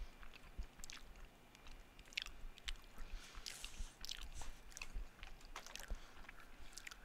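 A person chewing a mouthful of Philly cheesesteak casserole close to a headset microphone: irregular soft, wet mouth clicks and smacks.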